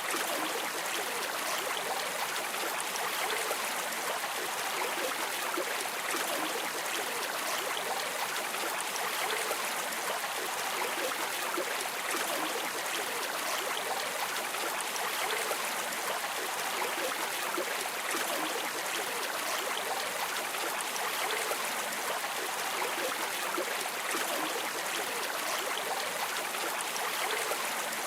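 River water streaming and splashing in a steady, even rush with no let-up.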